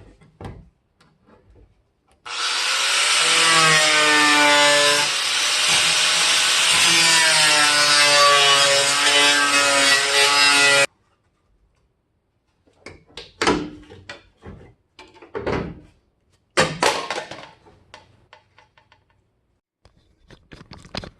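A power saw cutting through the truck's sheet-metal floor, running steadily with its pitch wavering under load for about nine seconds before cutting off abruptly. A few scattered metallic knocks and clatters follow near the end.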